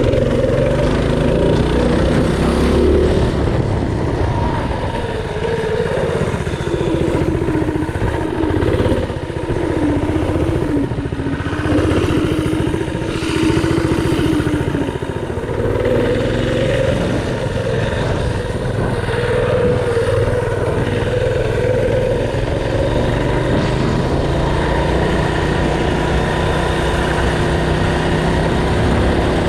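Mini bike's small single-cylinder engine running under load while being ridden, its pitch rising and falling as the throttle is opened and eased.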